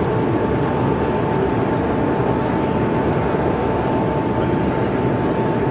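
Indistinct crowd chatter from a busy exhibition hall, with a steady high-pitched tone underneath.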